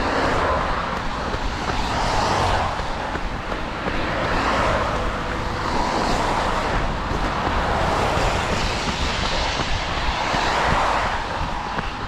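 Steady rushing noise of rain and running movement on a body-worn camera's microphone, swelling and easing about every two seconds over a low rumble.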